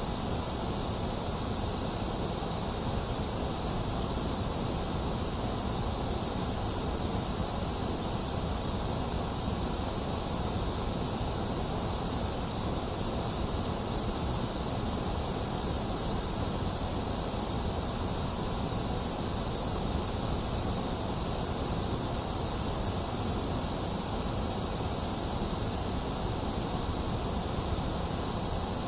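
Box fan running steadily together with steady rain: an even, unchanging hiss with a low rumble underneath.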